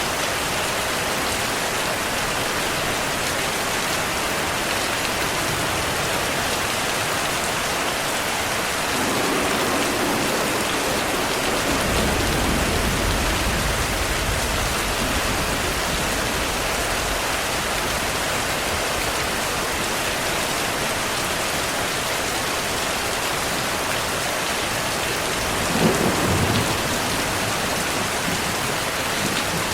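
Heavy steady rain with rolling thunder. A low rumble builds about a third of the way in, and a sharper thunderclap with a short rumble comes near the end.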